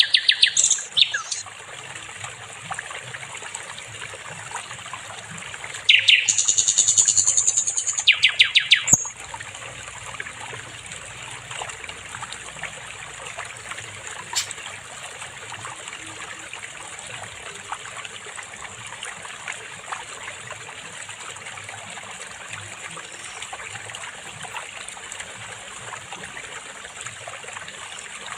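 Sikatan londo songbird singing loud, rapid phrases twice, at the very start and again from about six to nine seconds in, the second ending in a fast run of repeated notes, then only a single faint chirp later. Underneath, a stream trickles steadily.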